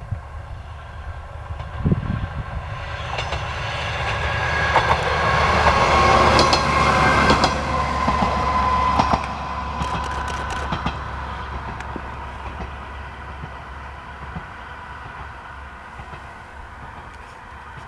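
Diesel railcar approaching and passing: engine drone and wheel clatter build to a peak about six to nine seconds in, with clicks from the wheels, then fade steadily as it moves away.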